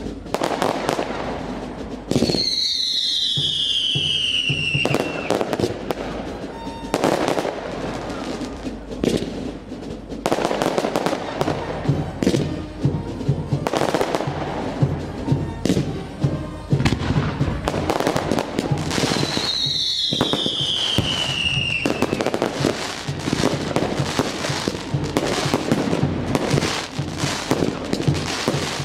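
Fireworks display: a dense run of bangs and crackling, with two whistling shells that fall in pitch, one about two seconds in and another near the twenty-second mark.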